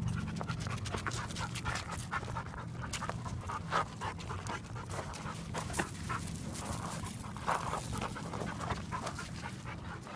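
A dog panting in a continuous run of quick breaths.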